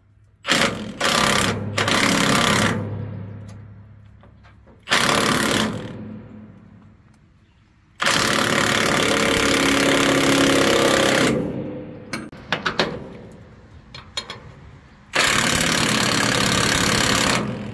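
Impact wrench run in four bursts, the longest about three seconds, tightening bolts, with a few quick clicks between the bursts.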